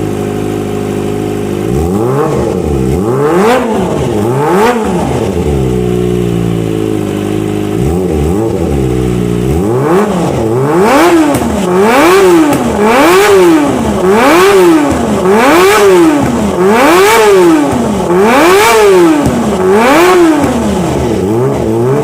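Kawasaki ZX-25R's inline-four engine running through a Prospeed aftermarket exhaust: idling, blipped up a few times, settling back to idle, then revved in a steady run of about eight quick throttle blips, roughly one a second.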